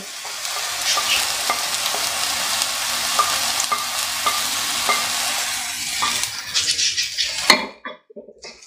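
Basmati rice and chopped vegetables sizzling in hot oil in a wok while peas, carrots and capsicum are scraped off a plate with a silicone spatula, with light scattered clicks. One sharp knock comes about seven and a half seconds in, then the sound drops away briefly.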